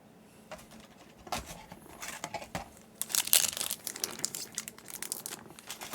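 Foil booster pack wrapper being crinkled and torn open by hand. Sparse crackles at first, then thicker, louder crinkling from about halfway through.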